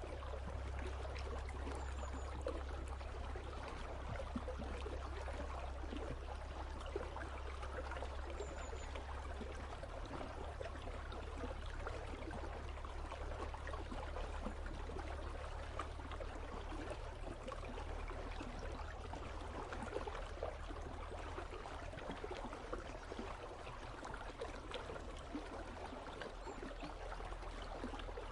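River water running steadily past ice, a continuous gurgling and trickling flow with a steady low rumble underneath.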